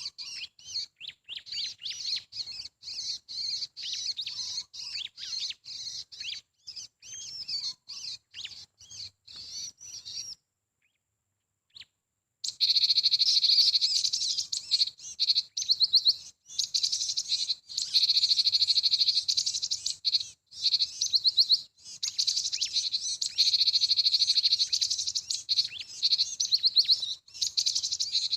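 Small songbirds chirping and twittering in quick, varied high notes. After a sudden two-second dropout, a louder, dense high-pitched trilling starts and keeps going with short breaks.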